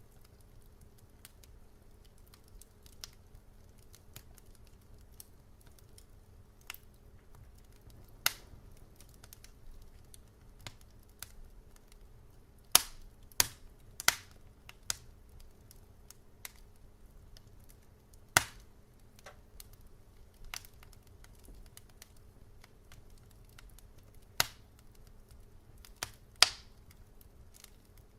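Wood fire crackling: irregular sharp pops and snaps, a few much louder than the rest, over a low steady hum.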